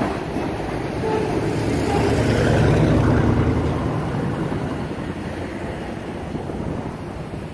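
Freight cars rolling past on the rails with a low rumble and clatter of wheels. The rumble swells to its loudest a few seconds in, then fades as the last cars go by.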